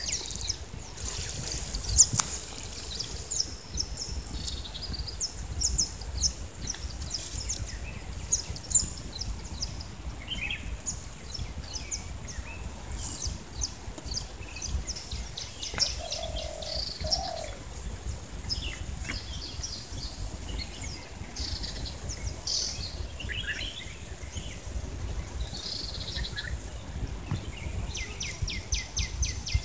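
Small birds chirping repeatedly, many short high chirps and twitters, over a steady low rumble.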